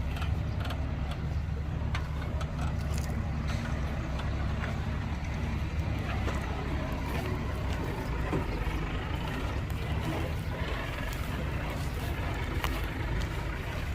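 Heavy diesel engine of construction machinery running steadily with a low drone, with scattered knocks and clatters over it.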